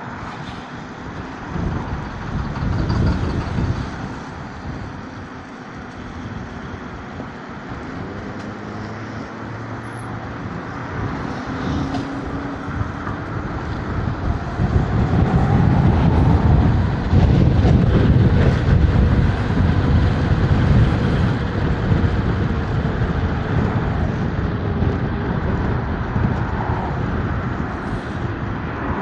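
Riding an electric scooter along city streets: wind rush on the camera microphone and passing traffic, with a faint whine sliding in pitch. The rumble grows louder and rougher around the middle.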